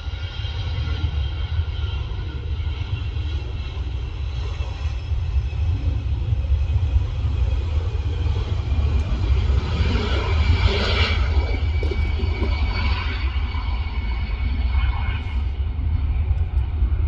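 Jet airliner's engines running at take-off power: a steady rumble with a whine of several high tones on top, swelling about ten seconds in.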